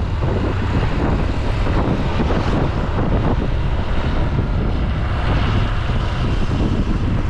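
Wind buffeting the microphone over the steady noise of a moving vehicle, with a heavy low rumble throughout.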